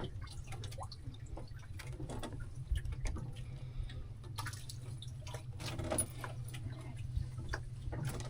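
Water dripping and sloshing around a small fishing boat, with scattered small clicks and knocks over a steady low rumble.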